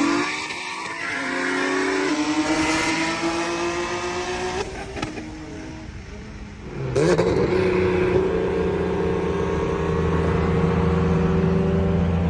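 Car engine pulling under load, its pitch slowly rising; it drops off briefly about five seconds in, then comes back on loud about seven seconds in and climbs again.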